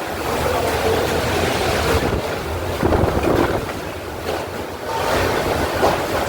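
Hurricane-force wind rushing and gusting, swelling and easing every second or two, with wind buffeting the microphone.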